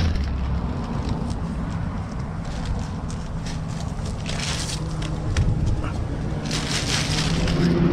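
A motor vehicle's engine running steadily under a rushing noise, which swells twice: once midway and once near the end.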